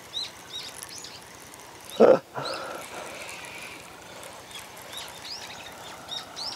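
Small birds chirping, many short rising-and-falling calls scattered through, over faint outdoor background noise. About two seconds in, one brief loud burst of noise stands out above them.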